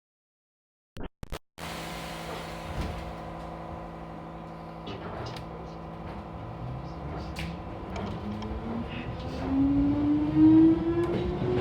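Hankyu 6000 series electric train pulling away: after a short silence, a steady hum of the train's equipment, then a traction motor whine climbing steadily in pitch and growing louder as the train gathers speed, with scattered sharp clicks from the running gear.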